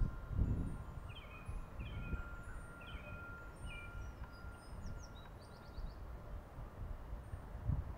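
Songbirds calling: a short chirp repeated about once a second, four or five times, then a quick trill from another bird, over a low rumble.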